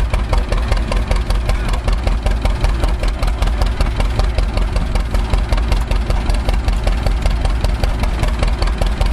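Antique tractor engine idling steadily at a rapid, even firing beat.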